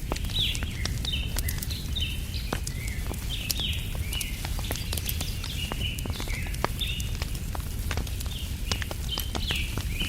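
Wood fire crackling with frequent small sharp pops over a steady low rumble, under a run of short bird chirps repeated several times a second.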